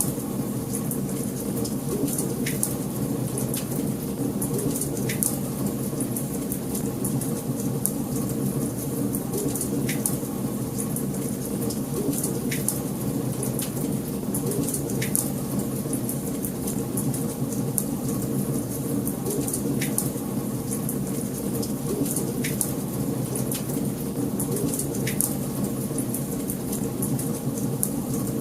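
Wood fire crackling in a fireplace: a steady low rushing roar of the flames, with many small crackles and a sharper pop every few seconds.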